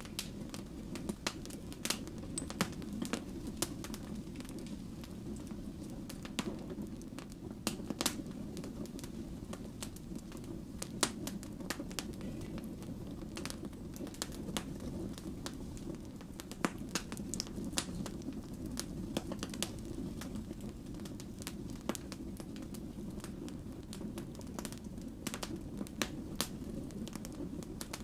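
Wood fire burning, with irregular sharp crackles and pops from the logs over a steady low rush of flame.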